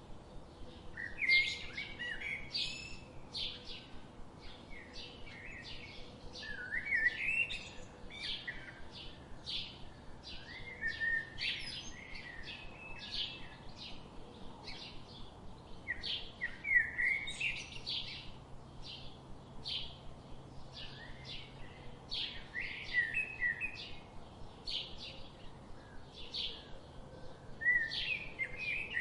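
Birdsong: several small birds chirping and twittering continuously, with short rapid chirps and a few louder warbled phrases.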